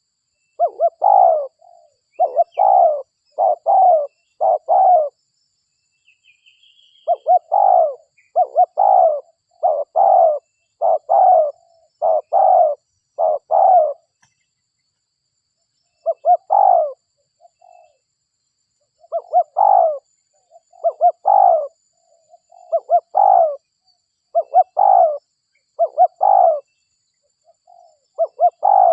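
Spotted dove (derkuku) cooing over and over: runs of five to seven short, low coos, with pauses of a few seconds between runs.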